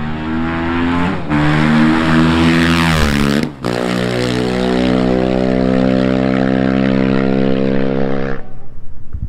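Sprint car's engine accelerating hard, with gear changes about one second and three and a half seconds in, then holding a steady high note before it cuts off near the end.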